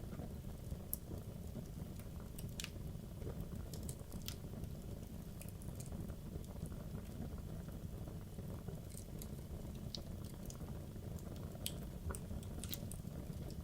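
Wood logs burning in a fireplace: a steady low rumble of the flames with irregular sharp crackles and pops from the wood.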